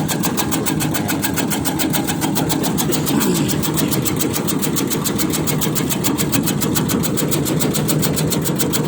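Motorised tobacco-shredding machine (rajang) running steadily, its engine drone overlaid by a rapid, even rhythm of blade chopping strokes.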